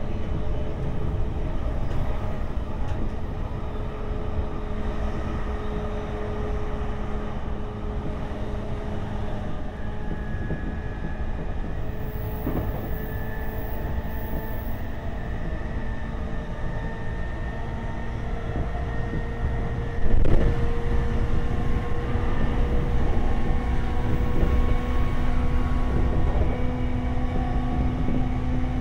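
A train running on rails: a steady low rumble with a steady motor whine, which gets suddenly louder about twenty seconds in, the whine rising slightly after that.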